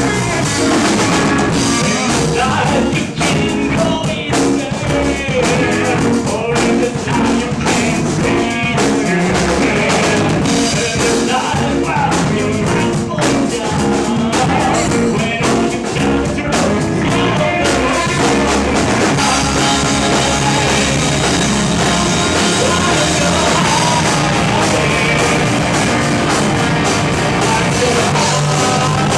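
A rock band playing live, with drum kit and guitars and some singing. The drum hits thin out about two thirds of the way through, leaving held chords.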